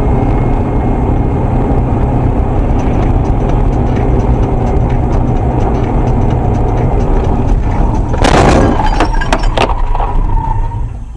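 Steady, loud vehicle driving noise, then about 8 seconds in a sudden loud crash with several sharp impacts over about a second and a half: a vehicle collision.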